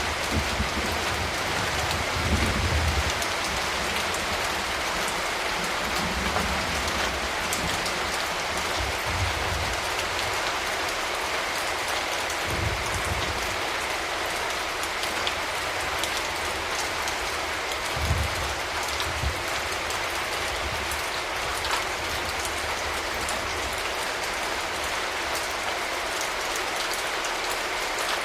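Steady rain falling, a dense even patter of drops, with a few brief low rumbles now and then.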